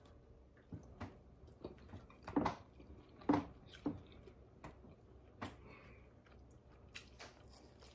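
Close-up chewing and mouth sounds of people eating barbecue, with scattered small clicks and a few louder smacks around the middle.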